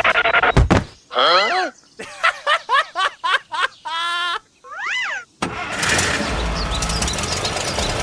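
A run of cartoon-style pitched sound effects: whistle-like tones sliding down, a quick string of short chirps, a held wavering horn-like note and a rising-and-falling glide. About five and a half seconds in, a steady noisy din with a low hum takes over.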